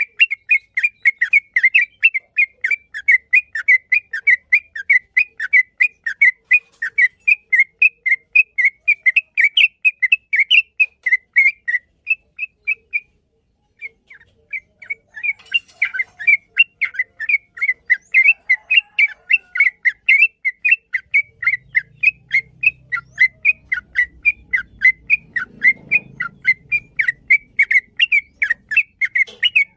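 Yellow-vented bulbul (trucukan) singing a long, fast run of short chirping notes, about four a second, with a brief pause about halfway through before the run resumes.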